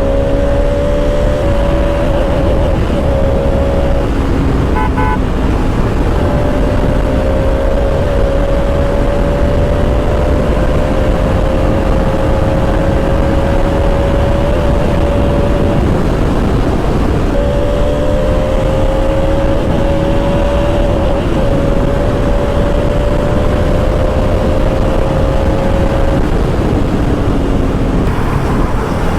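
Bajaj Pulsar RS200's single-cylinder engine pulling at a steady cruise, its note holding and creeping slowly upward, with heavy wind rush over it. A brief horn toot sounds about five seconds in, and the engine note falls away near the end as the throttle comes off.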